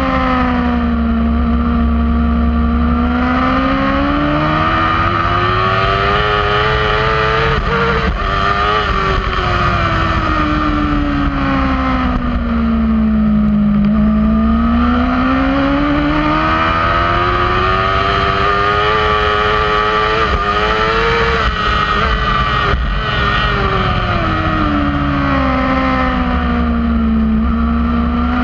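Kawasaki superbike engine at racing speed, heard from on the bike: the pitch climbs, falls to a low about halfway through, climbs again with brief dips at gear changes, and falls once more near the end. A steady low rumble of wind runs underneath.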